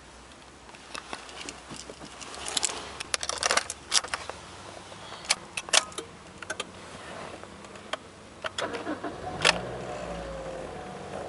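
Car keys jangling and clicking, then the 2008 Toyota Corolla's 1.6-litre four-cylinder engine is started about nine and a half seconds in and settles into a steady idle, its pitch slowly falling.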